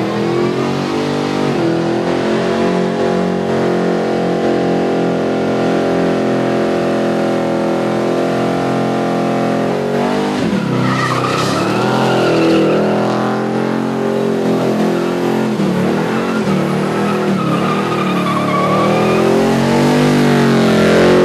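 Car engine held at steady high revs for about ten seconds, then revving up and down while the tyres squeal in a burnout.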